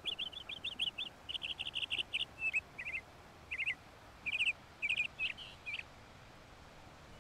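A small bird chirping: quick runs of short high chirps that thin out into separate little bursts and stop about six seconds in.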